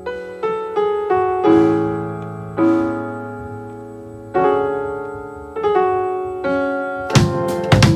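Piano playing slow chords, each struck and left to ring and fade. About seven seconds in, a drum kit comes in with a quick run of hits and cymbal crashes over the piano.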